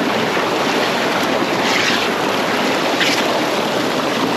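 Small mountain waterfall pouring into its pool: a steady, loud rush of falling water close to the microphone.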